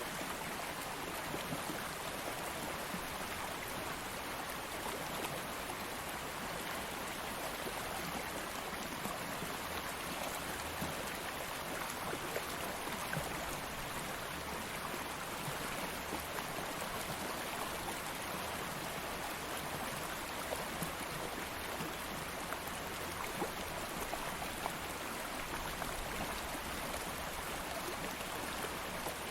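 A calm stream of flowing water, running steadily as an even rush with many small splashes and droplet ticks.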